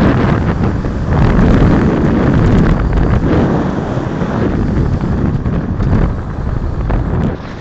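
Wind buffeting the microphone: a loud, uneven rumbling rush that drops off near the end.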